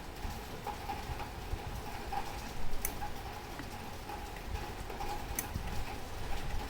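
Mauthe grandfather clock movement ticking steadily, with two sharper clicks, the first a little before halfway and the second near the end.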